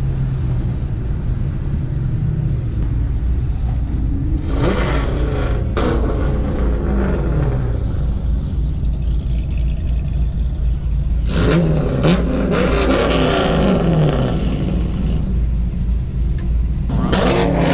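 Car engines running over a steady low rumble, revving up and down three times: about four seconds in, about eleven seconds in, and near the end.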